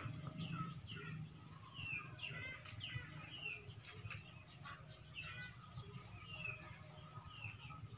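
Small birds chirping: many short notes sliding in pitch, coming several times a second.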